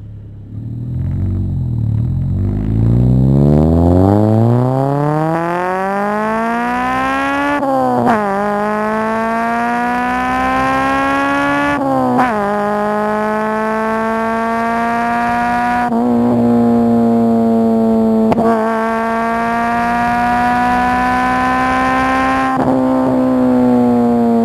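Honda Civic EG6's 1.6-litre VTEC four-cylinder breathing through a Spoon N1 exhaust muffler, accelerating hard. The exhaust note climbs steeply in first gear, then upshifts about eight and twelve seconds in. It holds a steady note with brief breaks near sixteen and eighteen seconds, then drops and tails off slowly after about twenty-two seconds.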